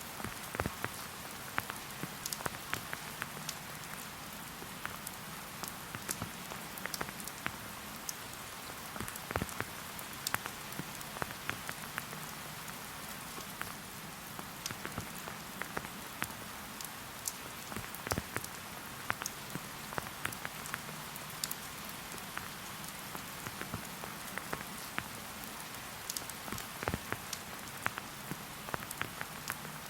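Steady rain falling in a forest, a soft even hiss with many separate drops ticking sharply at irregular moments.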